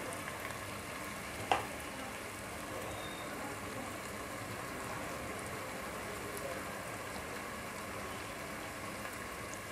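Sliced onions frying in hot oil in a pan: a steady, even sizzle. One short light knock about one and a half seconds in.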